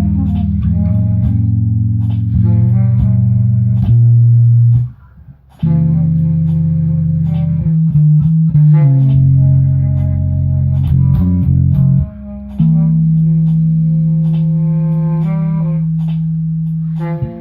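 Guitar and bass guitar jamming, playing long held notes and chords with heavy low end; the playing stops for about a second around five seconds in, then picks up again.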